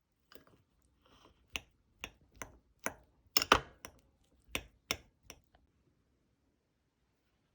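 A series of light, irregular clicks and taps, about a dozen over roughly five seconds, like small hard objects or utensils being set down or knocked together.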